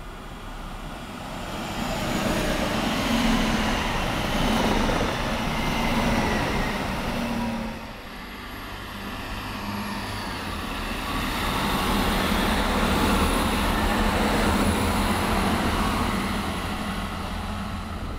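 A train passing on the line, with a dense rumble of wheels on rail and a steady low hum. The sound builds over the first couple of seconds, drops briefly about eight seconds in, then swells again for a long stretch.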